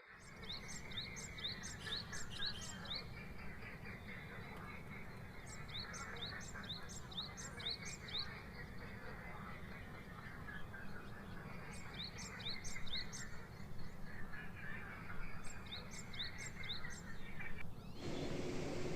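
A small songbird singing bouts of quick, repeated rising chirps, about three a second, with pauses of a few seconds between bouts, over a steady outdoor background hiss. The sound changes abruptly about a second before the end.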